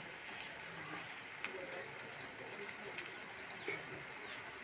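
Malpua (rice-flour and coconut pancakes) frying in oil in a pan: a steady sizzle with a couple of small pops.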